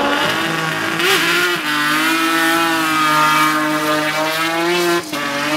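Race car engine held at high, nearly steady revs for about five seconds, then a sudden break and the note picks up again slightly lower.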